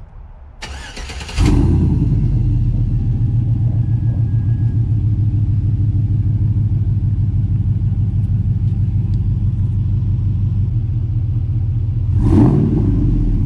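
2004 Chevrolet Silverado 1500's stock 5.3L LM7 V8, exhausting through long-tube headers, a catless Y-pipe and a Borla XR-1 muffler, starting up: a brief crank, then it fires about a second and a half in and settles into a loud, deep, steady idle. A short louder burst comes near the end.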